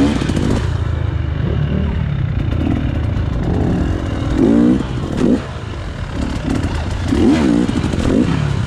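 KTM EXC 300 two-stroke enduro motorcycle engine running at a low, steady idle, with a few short pitch rises about halfway through and near the end.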